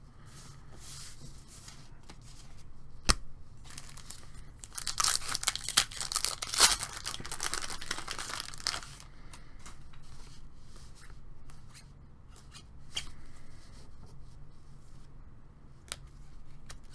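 A baseball card pack wrapper being torn open and crinkled, with a sharp click about three seconds in and the loudest, densest crackling of the wrapper from about five to nine seconds, then lighter rustling as the pack is handled.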